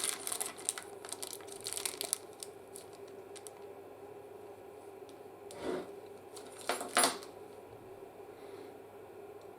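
Unboxing handling noises: a couple of seconds of light clicking and packaging rustle, then a soft knock about six seconds in and a sharper clack about a second later, over a faint steady hum.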